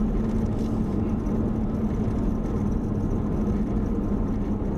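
Car driving, heard from inside the cabin: a steady rumble of engine and road noise with a constant low hum.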